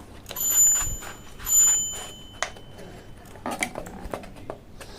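A bell-like ring sounds twice, about a second apart, each ring dying away over about a second, with light clicks and taps around it.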